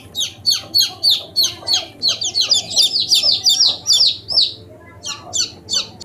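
A bird chirping: a fast run of short, sharp, high calls, each dropping in pitch, coming thicker in the middle, breaking off briefly about four and a half seconds in, then three more calls near the end.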